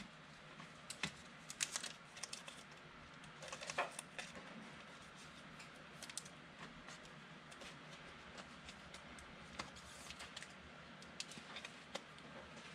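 Faint, irregular light clicks and taps, scattered across a quiet room background.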